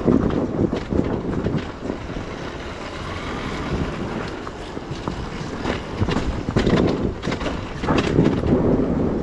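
Enduro motorcycle engine running under riding throttle, swelling louder twice in the second half, with wind buffeting the microphone and scattered knocks.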